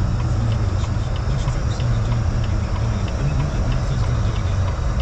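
Steady low rumble of a car driving along a road, the engine and road noise heard from inside the cabin.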